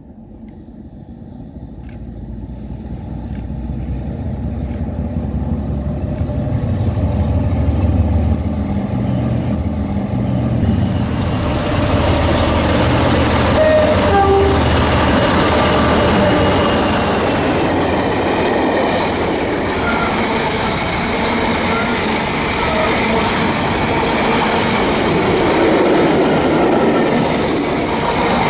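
Class 47 diesel locomotive's Sulzer twelve-cylinder engine rumbling louder as the train approaches at speed. About eleven seconds in, the rushing noise of the passing coaches takes over, with a regular clickety-clack of wheels over rail joints about once a second.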